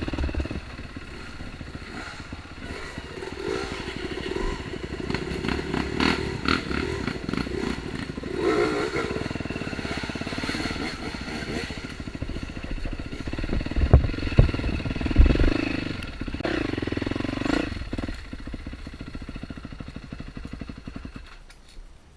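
Dirt-bike engine running on a rough trail, rising and falling with the throttle, with a few heavy knocks from the bike about two-thirds of the way through. The engine sound dies away just before the end.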